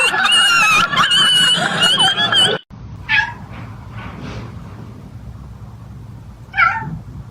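A cat yowling in long, wavering calls that cut off suddenly about two and a half seconds in. After a quieter stretch come two shorter meows, one just after three seconds and one near the end.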